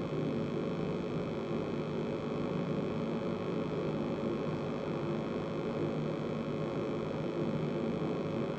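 Steady low hum with hiss, unchanging throughout.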